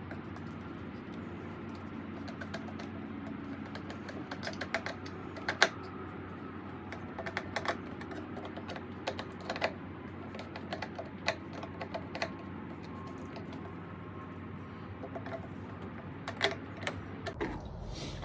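Irregular light clicks and taps of small plastic and metal parts being handled and fitted by hand while a Stihl BR340 leaf blower is reassembled, over a steady low hum.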